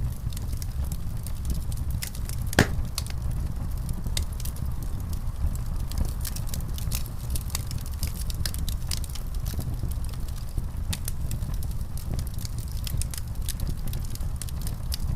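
Wood fire burning in a fireplace: a steady low rumble with frequent small crackles and pops, one louder pop a couple of seconds in.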